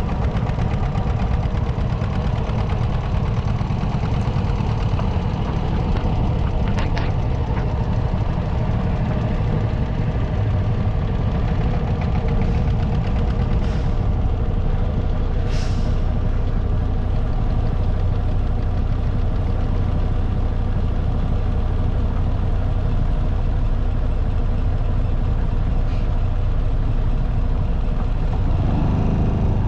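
Motorcycle engine running steadily on the road, with two short hisses around the middle.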